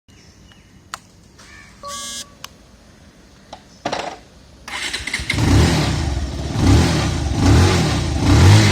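A short electronic beep, then about five seconds in a motorcycle engine starts and is revved several times, its pitch rising and falling with each blip of the throttle.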